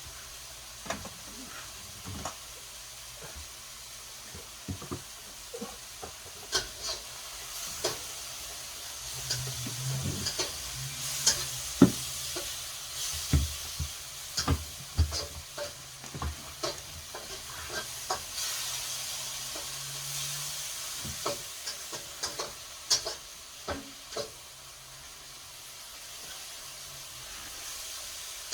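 Scattered clicks, knocks and rustling of hands refitting refrigerator freezer parts, busiest in the middle, over a steady hiss, with a faint low hum through the middle stretch.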